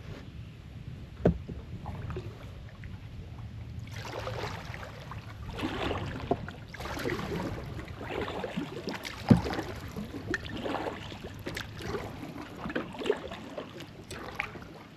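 Kayak paddle strokes splashing through the water in a repeating rhythm, with a few sharp knocks, likely the paddle striking the hull.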